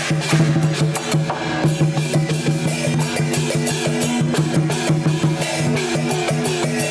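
Chinese percussion band of drums, gongs and cymbals playing a fast, dense beat over a steady low hum.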